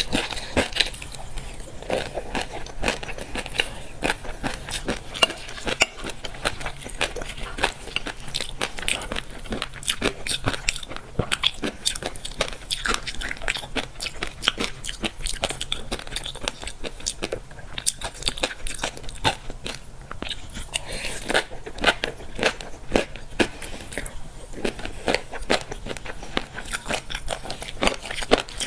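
Close-up chewing of fish roe: a dense, continuous crackle of the little eggs popping between the teeth, many sharp pops a second.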